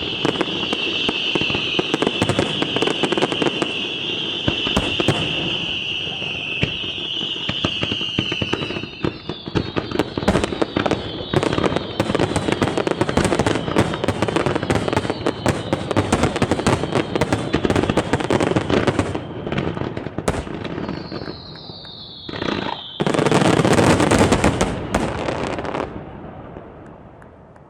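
Fireworks display: a high, steady whistle from rising shells, then dense crackling and rapid sharp bangs. Near the end there is a falling whistle and a loud drawn-out burst, after which the sound fades away.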